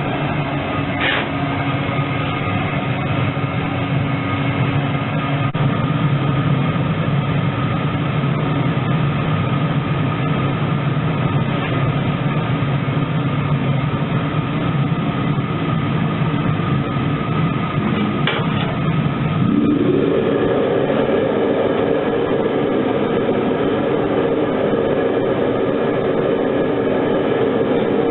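Foundry furnace running on preheat: a steady burner rush with a low hum. About two-thirds of the way through, the hum glides up in pitch and settles higher and slightly louder.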